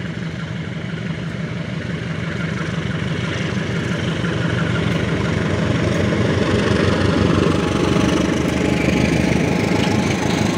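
Diesel-electric locomotive running as it hauls a passenger train past, a steady engine hum growing louder as it approaches. Then steel wheels rumble and clatter on the rails as the coaches roll by.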